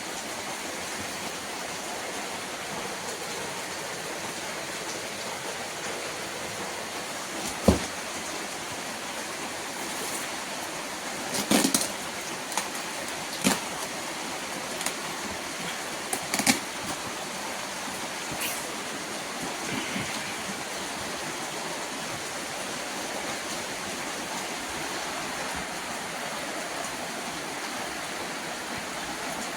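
Steady hiss with a handful of short knocks and clicks from handling a welding set and its packaging, the loudest about eight seconds in and a cluster between about eleven and seventeen seconds.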